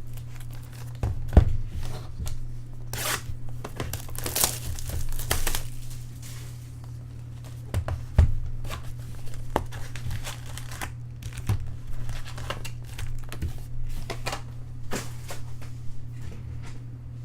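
Trading card pack wrappers being torn open and crinkled, with cards handled in between, in irregular rustling bursts. Two sharp knocks on the table, the louder about a second and a half in, the other about eight seconds in, over a steady low hum.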